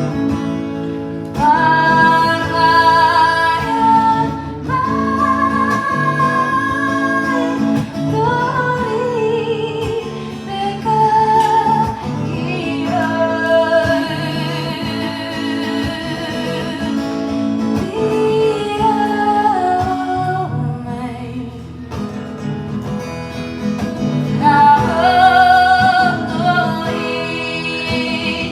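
A woman singing with acoustic guitar accompaniment, a live song with long held notes over strummed chords.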